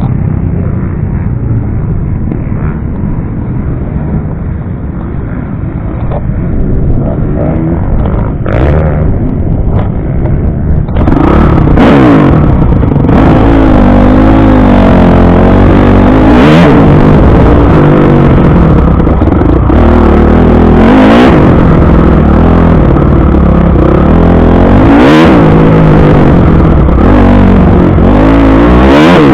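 Motocross bike engine being ridden, muffled and lower for the first ten seconds or so, then loud, its pitch rising and falling again and again as the throttle is opened and shut.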